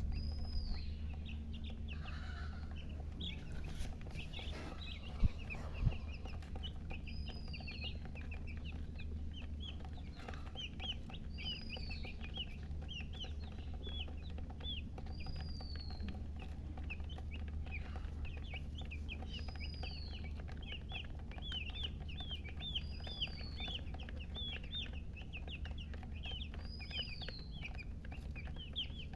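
Domestic chicks peeping rapidly and continuously, with a higher arching call repeating every two to three seconds. Two sharp knocks about five and six seconds in, over a steady low hum.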